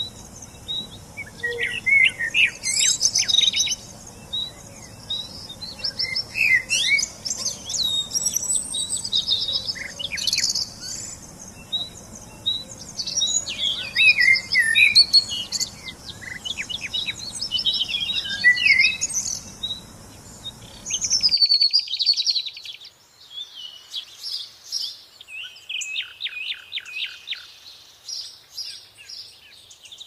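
Several songbirds chirping and singing in many overlapping short calls, over a steady background hiss. About 21 seconds in the sound cuts abruptly to a cleaner recording without the hiss, where a bird sings runs of rapid repeated notes.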